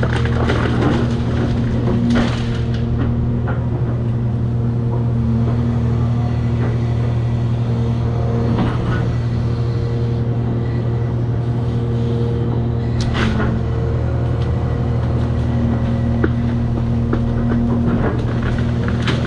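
Cat 336 excavator's diesel engine running steadily under load, its pitch swelling and easing slightly, with a few scattered knocks and crunches.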